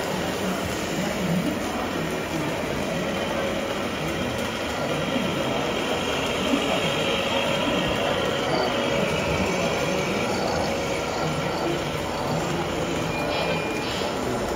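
Radio-controlled scale model trucks and a wheel loader running: a steady mechanical whir from their electric drives and gearing, with a faint higher whine in the middle.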